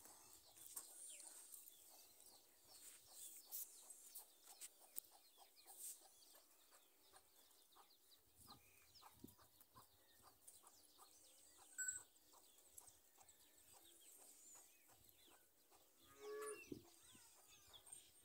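Near silence with faint farmyard sounds: scattered light clicks and a short pitched call from a hen about two seconds before the end.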